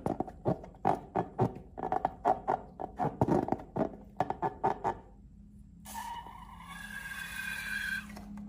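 Sticky slime being squeezed and worked by hand, a quick irregular run of wet squelches and small pops for about five seconds. Then, about six seconds in, a high squeaky hiss, like rubber being stretched or air escaping, carries on until near the end.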